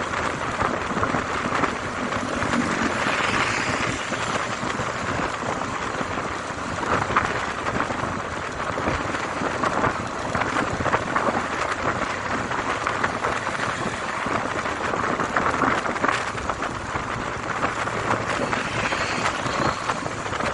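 Steady rushing noise of a motorcycle ride: wind and road noise on a bike-mounted camera's microphone, swelling and easing a little now and then.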